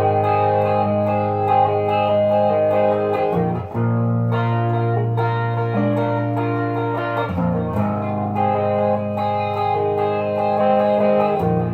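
Wolf KSA-50 electric guitar played through a Boss Katana 50 amp with effects. Chords are let ring, changing about every four seconds.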